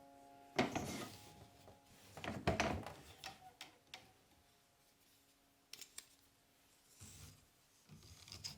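Hand-weaving sounds at a table loom: scattered rubbing and scraping of wool yarn and wood, with a few light clicks and knocks.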